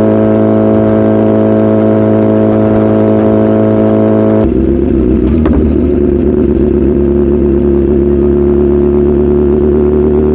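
BMW S1000RR's inline-four engine running at steady revs. About four and a half seconds in the note changes abruptly to a different steady pitch with more rumble and rushing noise.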